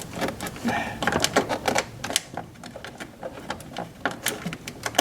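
Irregular clicks and light knocks of car parts being handled and fitted into place by hand, densest in the first couple of seconds.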